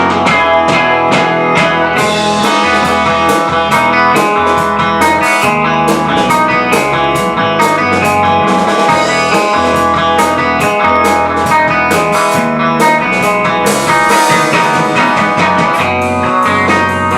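A live band playing a song: guitar to the fore over steady drum hits, loud and unbroken throughout.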